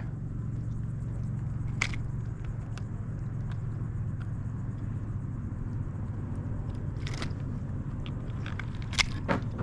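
Steady low rumble with a few sharp knocks and scrapes, about a second and a half apart at first and then a cluster near the end: the noise of handling gear and a hooked fish against a kayak.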